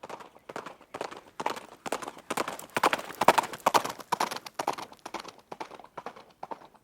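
Hoofbeats of a running horse: a quick, uneven run of strikes that grows louder to a peak about halfway, then fades as the horse passes.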